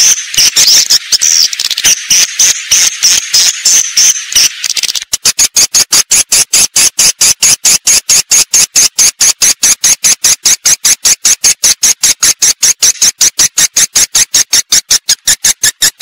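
Recorded swiftlet calls used as a lure to draw swiftlets into a nesting house: a dense, high chirping twitter for about five seconds, then a fast, even train of short chirps.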